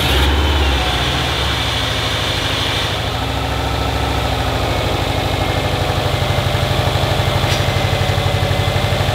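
Freshly resealed Subaru EJ25 turbocharged flat-four in a 2007 WRX STI idling just after its first start following the rebuild, louder and lower for the first second or so, then settling into a steady, even idle. It sounds smooth.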